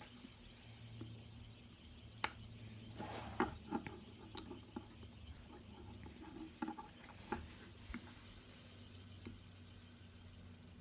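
Faint scattered clicks and light taps from fidget spinners being handled, over a steady low hum.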